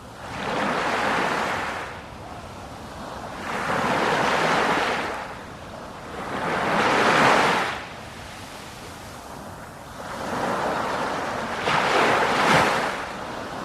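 Sea waves washing in one after another, four surges of rushing water each rising and falling away, a few seconds apart.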